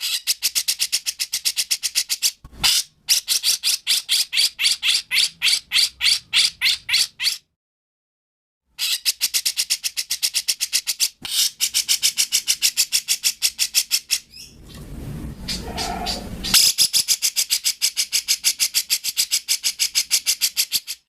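Recorded songbird calls used as a masteran (song tutor for cage birds): fast, harsh chirps repeated about four times a second in long runs, with a pause in the middle and a rougher, scratchier stretch shortly before the end.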